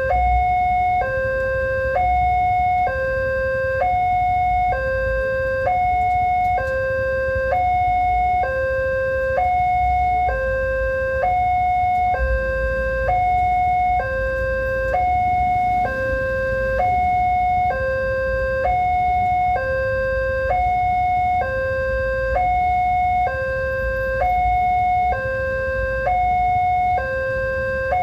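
Railway level-crossing warning alarm sounding its electronic two-tone signal, a higher and a lower tone alternating evenly about once a second without a break. It is the sign that a train is approaching and the crossing is closed.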